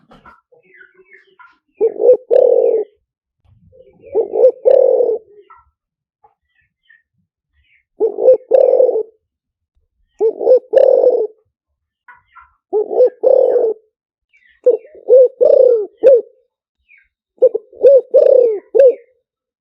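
Spotted dove cooing: low phrases of two or three coo notes each, repeated about every two to three seconds, seven phrases in all. Faint chirps of small birds fall between them. This is the call played as a decoy to lure wild spotted doves.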